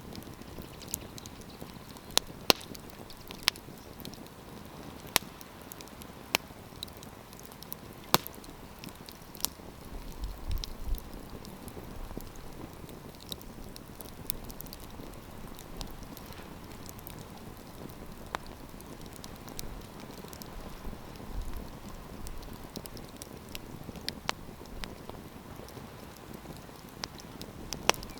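Wood campfire crackling: sharp pops come at irregular moments over a steady soft hiss.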